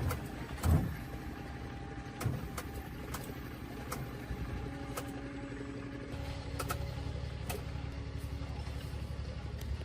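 Farm tractor engine running with a rapid, even beat and a few sharp knocks in the first seconds; it gets louder about six seconds in.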